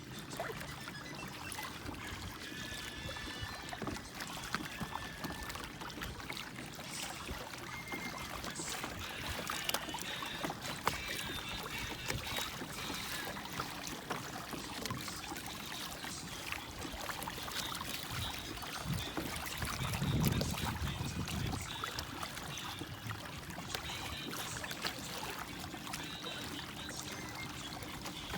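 Paddling on open river water: a paddle dipping and water splashing and trickling around a small paddled boat, with a brief low rumble about twenty seconds in.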